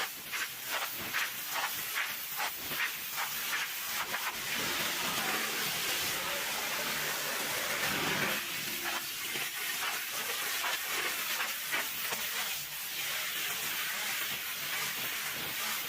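Pressure-washer spray hissing against a truck, pulsing in short repeated strokes for the first few seconds and then running as a steadier hiss.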